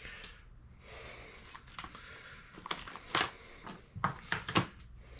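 Hand tools and small metal parts being handled on a workbench: a few short, light clicks and knocks over a low steady hum.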